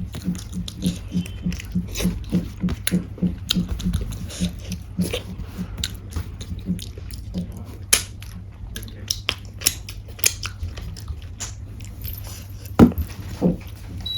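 Close-miked chewing of a mouthful of rajma and rice, a steady rhythm of about three chews a second at first, then slower with wet mouth clicks and smacks. A sharp knock sounds near the end.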